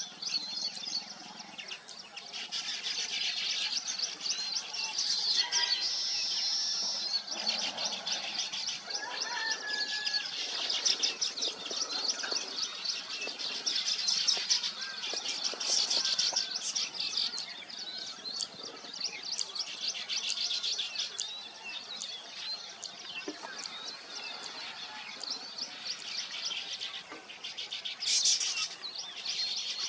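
Many weaver birds chirping at once: a dense, steady chatter of rapid, overlapping calls.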